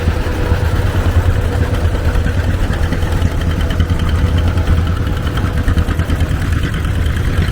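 Old farm tractor engine running steadily as it drives by, a low, pulsing rumble.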